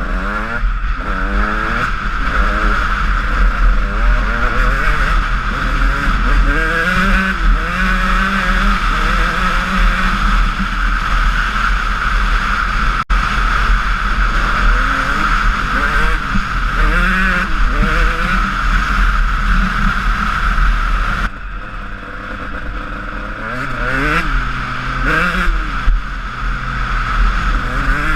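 Honda CR125 single-cylinder two-stroke motocross engine under way, its revs rising and falling again and again as it is ridden through the gears, over a steady low rumble. The level drops suddenly about three quarters of the way through.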